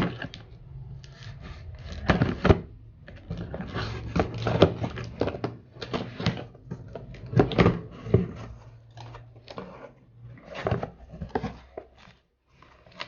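Cardboard box of a ceiling fan being opened and handled by hand: an irregular run of knocks, clicks, scrapes and rustles.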